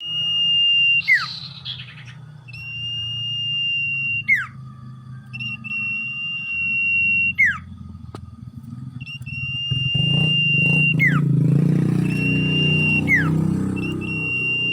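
Common iora (cipoh/sirdung) singing its long, steady, high whistles, each ending in a quick downward swoop, repeated about every three seconds, five times. A low rumble sits underneath and grows louder in the second half.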